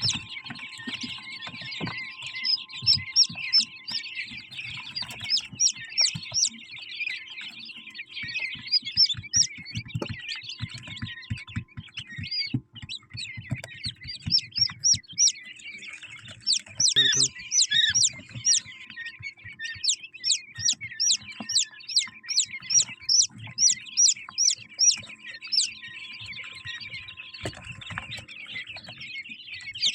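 Many quail chirping together in a constant chatter, with loud high chirps repeated in quick runs of about three a second. Faint low knocks sound underneath.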